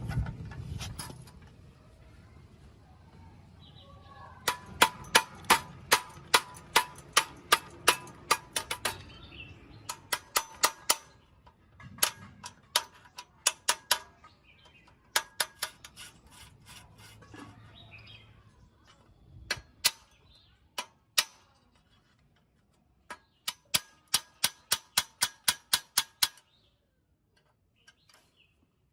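Metal being struck by a hammer in runs of quick blows, about three a second, each blow ringing briefly, with short pauses between the runs.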